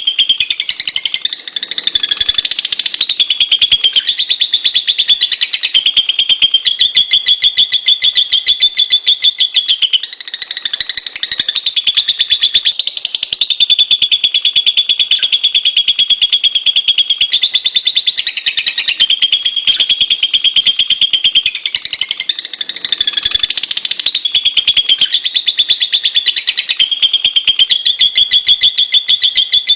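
Lovebird giving a long, unbroken, rapid high-pitched chattering trill, the notes coming too fast to count and the pitch pattern shifting every few seconds.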